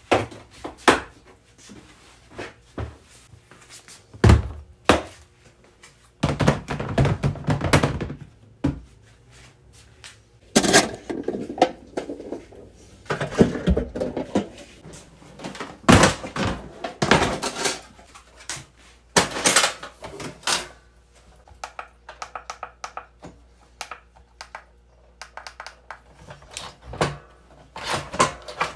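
Camping gear being handled: an irregular series of knocks, thunks and clatters as hard items are set down and moved, with rustling in between.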